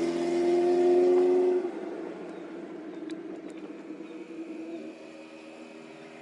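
A horn sounding one long, loud, steady chord of several tones, cut off after about a second and a half, leaving a fainter echo that fades away over the next few seconds.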